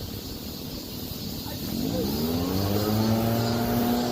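An engine rising in pitch about halfway through, then holding a steady tone, over a constant background rumble.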